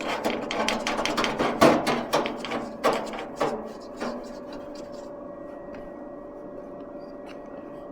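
Irregular knocks, clatter and rubbing as objects are handled, then about four seconds in it settles to a faint steady hum.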